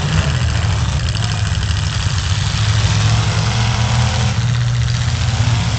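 Several full-size demolition derby trucks' engines running together, a loud, steady, low rumble.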